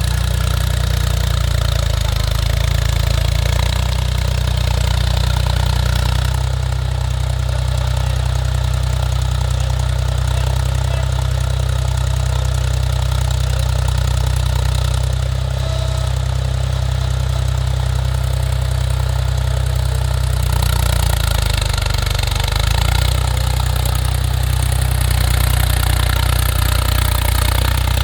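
Mahindra 275 TU tractor's diesel engine running steadily, with a slight change in pitch about three-quarters of the way through.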